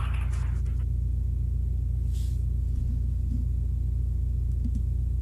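A steady low hum, with a brief faint hiss about two seconds in.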